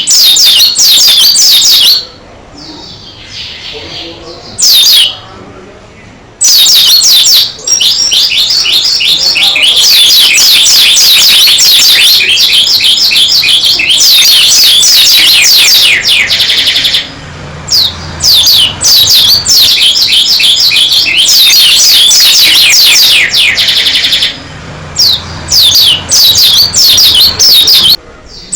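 White-eye (pleci dakun) in full song: long runs of fast, high, sweeping chattering notes that go on for several seconds at a time, broken by short pauses.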